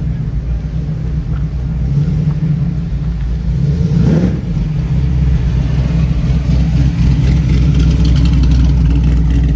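Car engine running close by, a steady deep rumble that swells slightly about halfway through.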